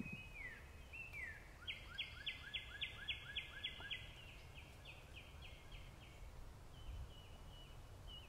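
A songbird singing: a held whistled note with a couple of downward slurs, then a rapid run of repeated whistled notes that fades toward the end, over a faint low outdoor rumble.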